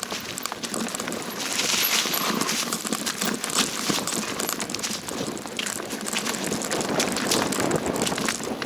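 Steady crunching and clattering of a mountain bike rolling down a rough dirt trail over stones and roots, with many small knocks and rattles.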